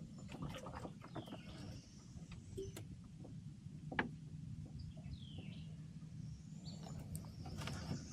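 A bird calling a few times with short downward-sweeping notes, over scattered sharp clicks and knocks, the loudest about halfway through.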